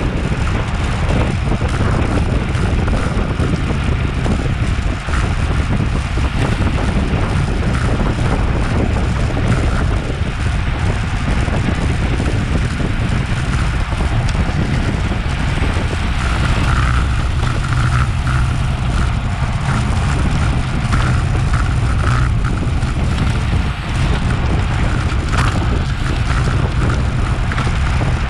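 Steady, heavy wind rush on an action camera's microphone from a road bike ridden at race speed.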